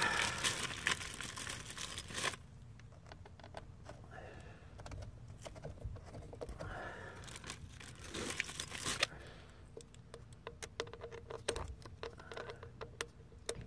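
Rustling and scraping of materials being handled for about two seconds, then faint scattered clicks and taps.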